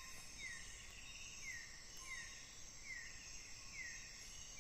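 Night-time tropical forest ambience: a steady insect chorus, with a short high chirp that falls in pitch repeating about once a second.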